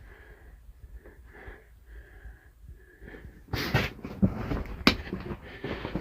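A person breathing in short, faint puffs in a small, enclosed space. About three and a half seconds in, much louder scraping noises start, with a sharp knock about five seconds in.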